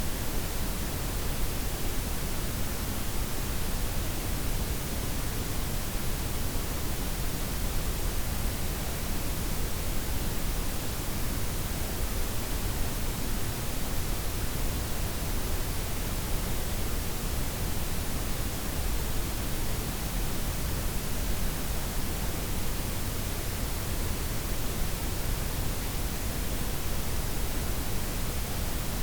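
Steady synthetic noise blend, softened white noise layered with pink and brown noise: an even, unchanging hiss with a deep rumble underneath and the highs gently rolled off.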